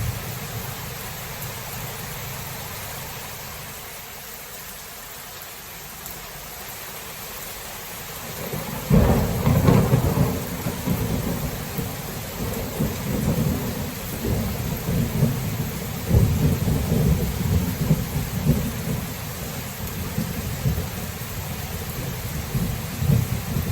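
Thunderstorm: steady rain hissing, then a sharp thunderclap about a third of the way in, followed by long rolling thunder that swells and fades.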